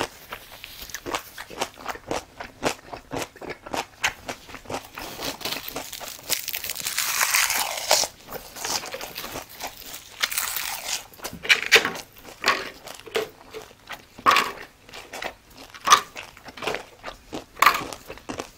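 Close-miked biting and chewing of crisp kimchi, mainly whole ponytail radish (chonggak kimchi), giving a steady stream of sharp wet crunches that grow louder and denser about seven and ten seconds in.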